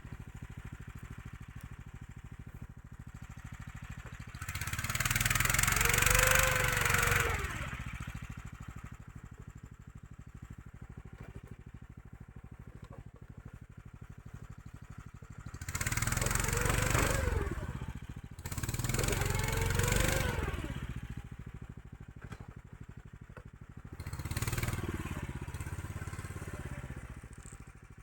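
Motorized snow tow's engine running low, then revved up and back down four times as the tracked machine is worked out of a rut where its track is half hung up. The first rev is the loudest.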